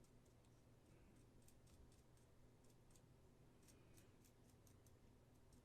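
Near silence, with faint, irregular light ticks and clicks scattered throughout.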